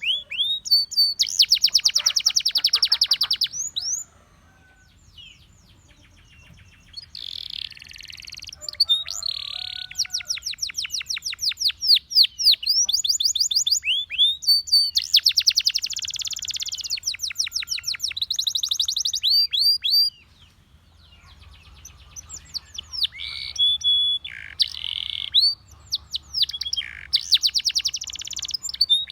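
A Russian singing canary in full song: long, fast trills of rapidly repeated notes mixed with quick rising and falling whistles. The song breaks off twice for a couple of seconds and then starts again.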